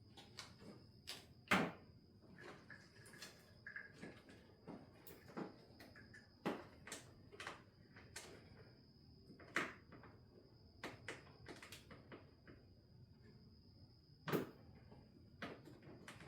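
Irregular clicks and knocks of hand tools and parts being handled in a car's engine bay during disassembly, with two sharper knocks, one early and one near the end, over a faint steady high whine.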